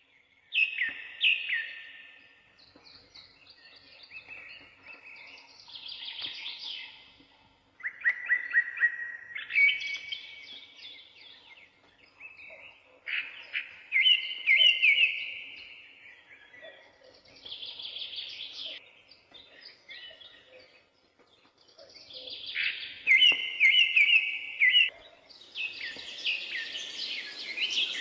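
A songbird singing, a run of short phrases of quick trilled and chirping notes repeated every few seconds.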